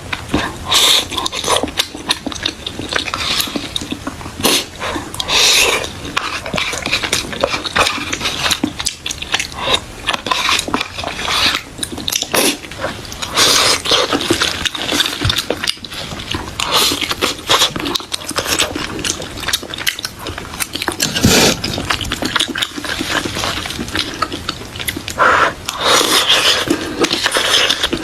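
Close-miked eating sounds: chewing and wet mouth sounds, with irregular clicks and scrapes of utensils against dishes.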